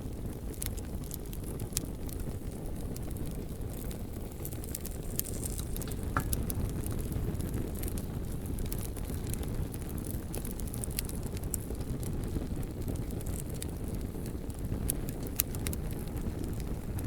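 Campfire crackling, with sharp pops scattered irregularly throughout over a steady low rumble, and one brief whistle from the fire about six seconds in.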